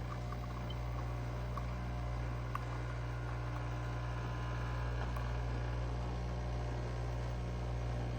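Café Affetto automatic espresso machine's pump running steadily while it brews an espresso shot: a constant low electric hum with a few faint ticks.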